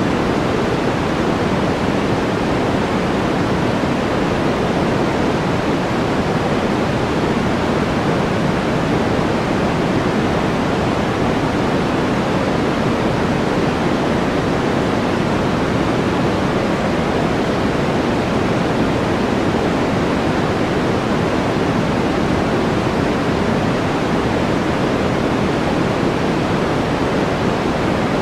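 Steady, unchanging noise track: an even rushing hiss, fuller in the low and middle range than in the highs.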